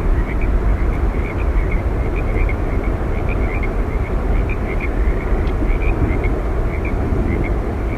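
Steady roar of Yosemite Falls, a deep, even rush of falling water with no pauses. Over it, many short, high chirps repeat irregularly, several a second.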